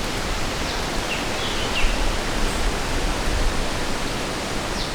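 Steady rushing of a river's flowing water, with a few faint, short high chirps about a second in.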